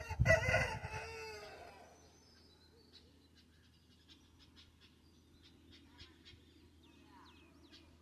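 Aseel rooster crowing once: a single crow of about two seconds at the start, falling in pitch at its end. Faint short calls from other fowl follow.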